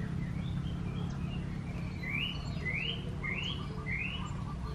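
A bird calling four rising chirps in a row, about half a second apart, starting about two seconds in, with a few fainter notes before them. A steady low hum runs underneath.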